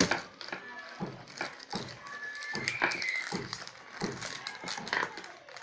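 Irregular light clicks and taps of small metal engine parts being handled as a clutch lifter plate is set onto a motorcycle engine's clutch.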